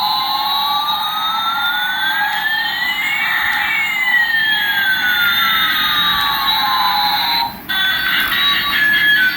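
Electronic siren-like sweep over a hiss: one tone rises while another falls, crossing in the middle, and the sound cuts off suddenly about seven and a half seconds in. A run of electronic beeping tones follows.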